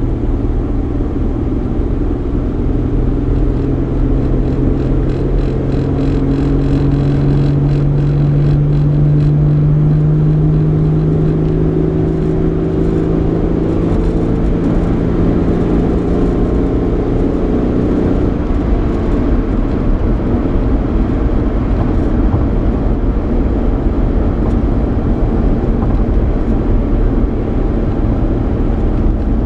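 Cabin sound of a 3.8-litre V6 Ford Mustang on the road. The engine hum slowly rises in pitch for about ten seconds, holds, then fades out about 18 seconds in, leaving steady tyre and road rumble.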